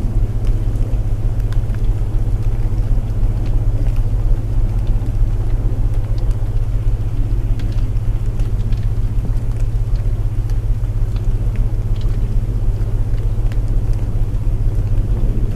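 Layered sleep soundscape: a steady low drone of binaural tones under even rain noise, with scattered faint crackles of a wood fire.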